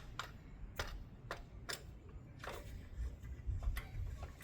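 Scattered sharp clicks and light knocks, irregular and roughly half a second apart, from hand tools and engine parts being handled while fitting the spark plug back into a small lawn-tractor engine.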